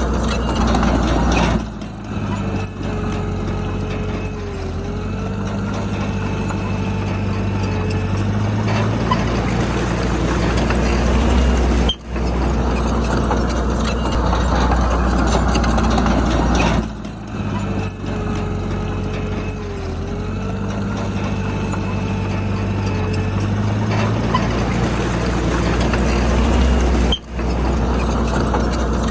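Heavy diesel engine of earthmoving machinery running steadily under load, with a low drone and a faint whine over it. The sound drops out briefly about twelve seconds in and again near the end.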